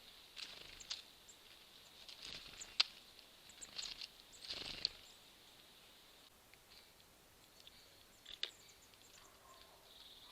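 Small birds pecking and scrabbling at a squirrel feeder full of seeds and nuts: a scattered run of sharp taps and short scratchy rustles, busiest in the first five seconds, with one more tap a little after eight seconds.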